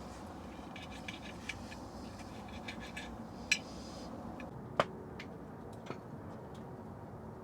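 Wood-burning tent stove crackling: scattered sharp clicks and pops, the loudest two about a second apart midway, over a steady low rush.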